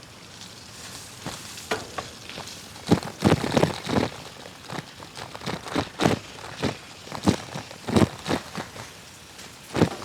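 A series of irregular knocks and thumps, loudest about three seconds in and again near eight seconds, over a faint crackling hiss.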